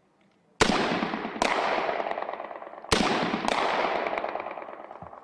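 Four single shots from HK G36 5.56 mm assault rifles, in two pairs about a second and a half apart, each shot followed by a long echoing decay.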